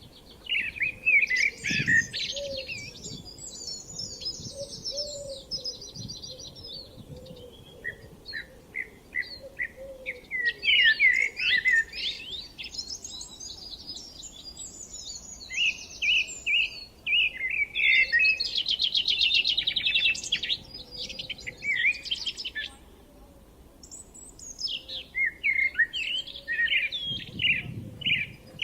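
Several songbirds singing at once in spring, their overlapping songs made of quick chirps and rapid trills, with only short lulls.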